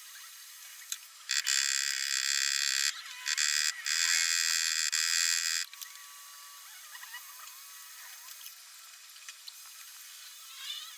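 A steady electric buzz from a small motorised tool, running for about four seconds with two brief breaks, then stopping.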